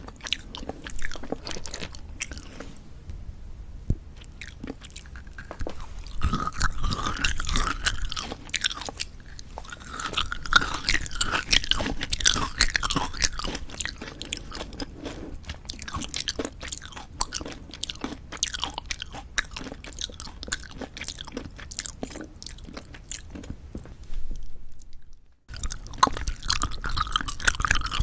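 Close-miked chewing of gummy jelly candy: wet, sticky smacking and squelching with irregular crisp clicks, in a steady run of bites and chews. About 25 seconds in the sound breaks off for a moment, then the chewing resumes.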